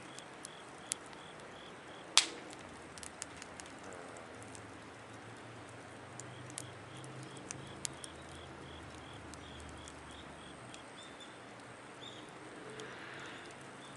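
Firewood burning in a Picogrill 760 fire pit, crackling with scattered sharp pops, one much louder pop about two seconds in.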